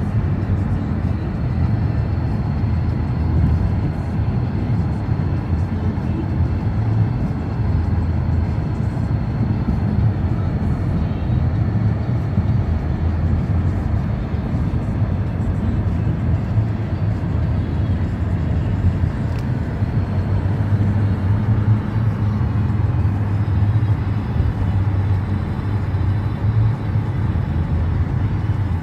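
Steady low rumble of a car driving, road and engine noise without a break.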